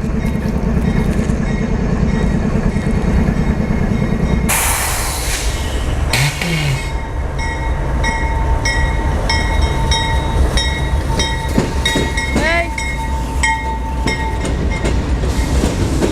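Freight train passing. A deep steady rumble for the first four seconds or so, then a short rush of noise, then rolling wheels clicking evenly over rail joints with high wheel squeal ringing over them.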